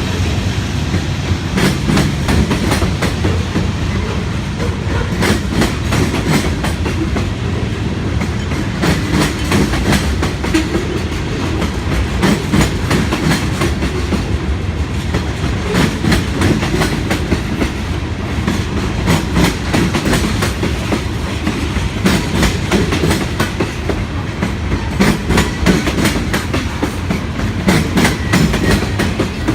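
Cars of a manifest freight train rolling past: a steady low rumble with repeated clusters of wheel clicks as the wheelsets cross rail joints.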